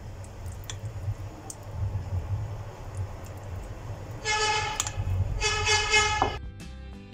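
Low vehicle rumble with a horn sounding twice, about a second apart, in the second half; a plucked guitar tune begins near the end.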